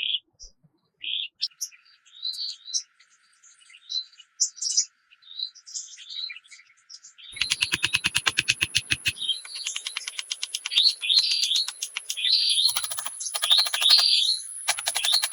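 Birds chirping in short, separate calls. About seven seconds in, a fast run of clicks starts along with a steady high-pitched whine, and the chirping grows louder and denser.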